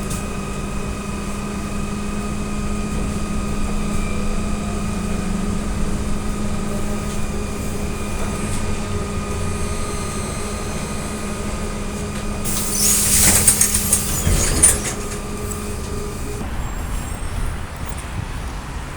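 Inside an AKSM-321 trolleybus: a steady electrical hum of several even tones over road noise. About twelve seconds in, a loud hiss of compressed air from the pneumatic system lasts a couple of seconds and ends in a knock. The hum stops a little after that.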